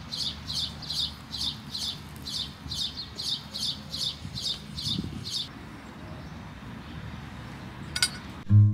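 A bird chirping over and over, about three short high chirps a second, stopping about five seconds in, over a low steady background rumble.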